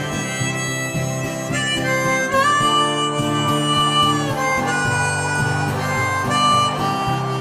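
Harmonica playing a slow melody of long held notes, one bent up into pitch about two and a half seconds in, over steady acoustic guitar strumming: the instrumental intro of a folk song's karaoke backing track.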